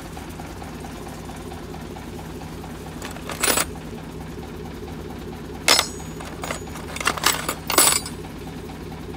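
Small metal belt-repair fasteners clinking and rattling as they are handled, in a few short bursts about three seconds in, near six seconds, and several more between seven and eight seconds. A snowmobile engine idles steadily underneath.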